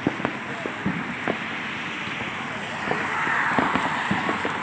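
Scattered sharp pops of fireworks and firecrackers over a steady hissing background, the hiss swelling a little about three seconds in.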